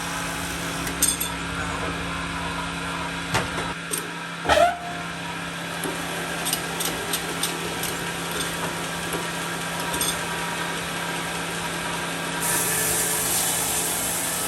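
A machine running with a steady hum, broken by a few sharp knocks and clatters, the loudest about four and a half seconds in. A brighter hiss joins near the end.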